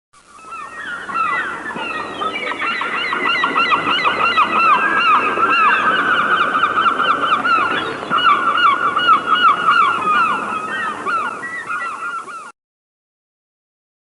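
Nestling birds begging for food: a dense chorus of rapid, repeated chirps from several chicks at once, building up over the first couple of seconds and cutting off abruptly near the end.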